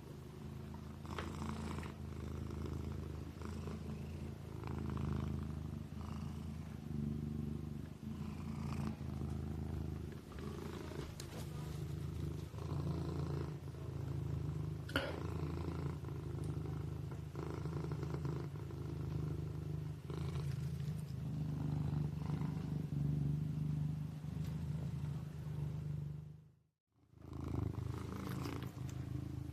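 Kitten purring: a steady low rumble that swells and eases with each breath, about every two seconds. The sound breaks off for a moment near the end, then the purring resumes.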